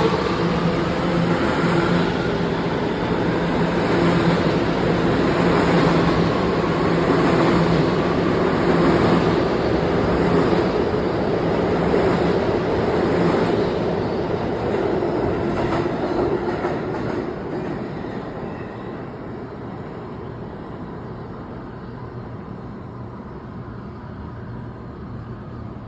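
New York City subway train running through the station, with a steady rumble of the cars and a motor hum. A rising motor whine comes at the start, and the train grows quieter over roughly the last eight seconds as it pulls away.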